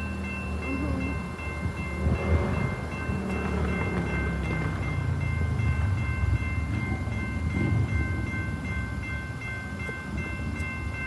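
Level crossing warning bell ringing steadily as a train comes through the crossing. The train's low rumble of engine and wheels grows louder from about two seconds in.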